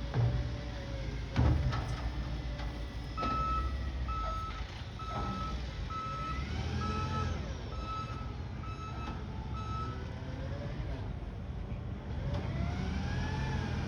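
Garbage truck's reversing alarm beeping about eight times at an even pace, about one beep a second, over the low rumble of the truck's engine. Two loud knocks come in the first second and a half.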